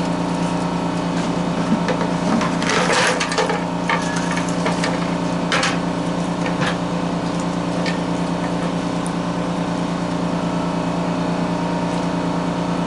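A steady machine hum under scattered clicks and rattles of copper scrap and its bucket being handled on a scale, busiest about three seconds in.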